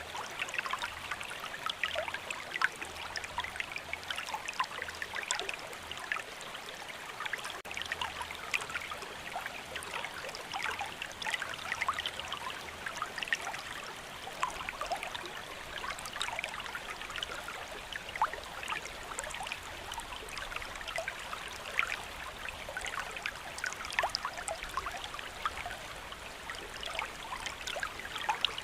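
Steady rainfall: a constant hiss dotted with many small, sharp drop sounds at irregular spacing.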